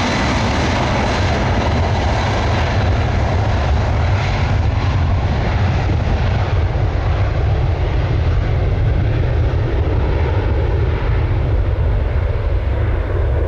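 Jet airliner taking off, its engines giving a loud steady rumble whose higher hiss gradually fades as the aircraft moves away.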